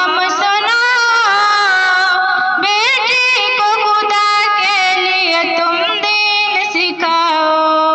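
A single voice singing an Islamic devotional song in long, ornamented held notes with vibrato and sliding runs, with no words made out.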